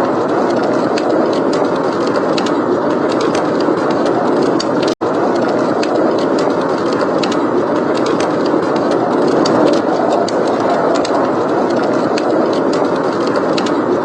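Steady rushing blizzard wind with fireplace crackling: many small, sharp pops and snaps over the wind. The sound drops out for an instant about five seconds in.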